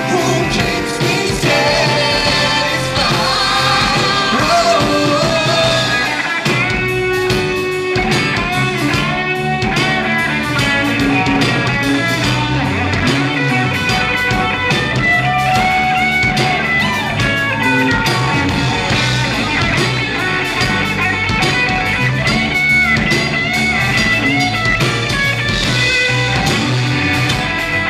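A rock band playing live, a full-band passage with guitar.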